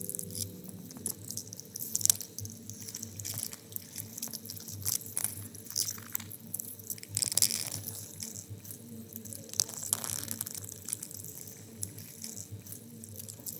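Sea urchin heard underwater: irregular crackling and clicking as its spines rub together and its skeleton creaks while it moves, over a low steady underwater hum.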